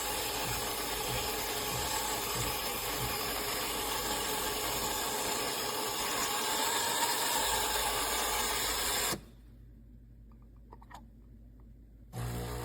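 Espresso machine running with a steady hiss, which cuts off abruptly about nine seconds in. A few faint clicks follow in the near silence, and the hiss starts again near the end.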